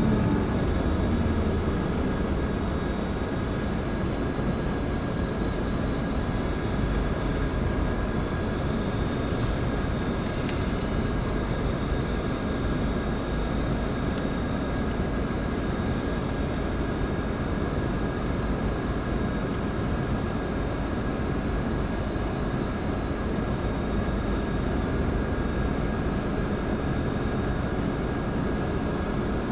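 Steady engine and road noise heard from inside a Scania K410IB coach on the move: a low rumble with a faint steady whine over it.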